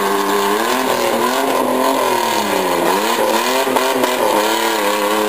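Demolition derby minivans and SUVs running hard on a dirt track. The pitch of the loudest engine sweeps down and back up through the middle as the vans reverse and accelerate into each other.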